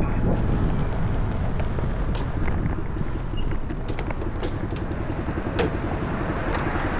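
Daelim City Ace motorcycle's small single-cylinder engine running on the move, a steady low rumble with wind on the microphone.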